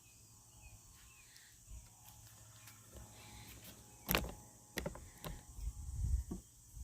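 Quiet, then from about four seconds in a handful of sharp knocks and clicks with some low rumbling between them.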